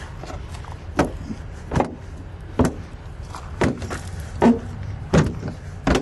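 Footsteps at a walking pace, about seven steps, over a low steady rumble.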